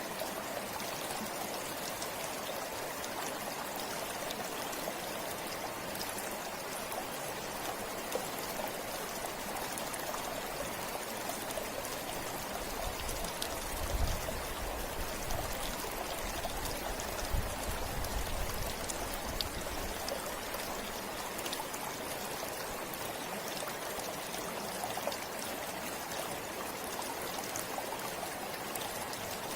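Forest river flowing steadily, a continuous rush and babble of water. A few low thumps come about halfway through.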